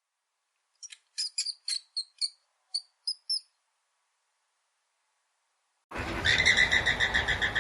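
A bird gives about ten short, high chirps in quick, uneven succession. About six seconds in, a much louder, rapidly pulsing sound begins.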